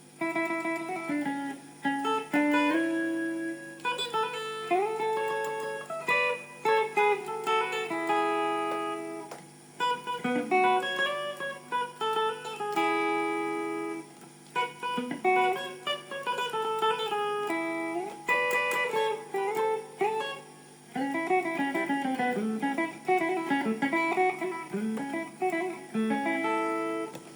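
Electric guitar played clean through a compressor pedal into an amp: melodic single-note lines mixed with chords, in phrases with brief pauses between them.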